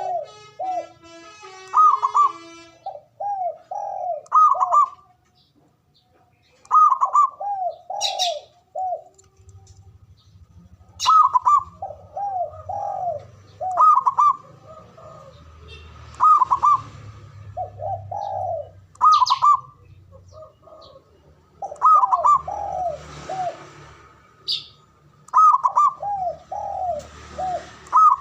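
Male zebra dove (perkutut) singing its cooing "manggung" song: a higher opening note followed by a run of lower rolling coos, the phrase repeated about every two to three seconds. Short high chirps from another bird cut in a few times.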